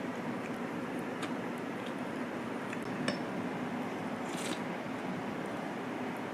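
Light clinks and taps of dishes and cutlery over a steady background hiss, with a short scrape-like rustle a little past the middle.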